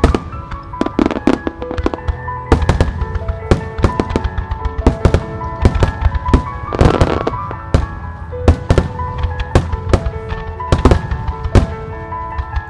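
Aerial firework shells bursting in quick, irregular succession, many sharp bangs, over the music that accompanies the musical fireworks display.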